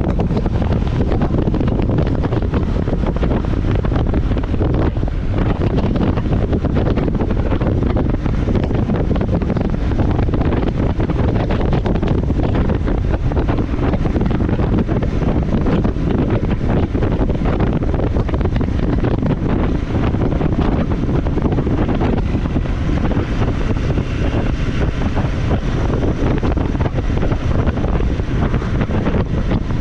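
Steady wind noise on the microphone of a moving motorcycle, with the motorcycle's running sound mixed underneath.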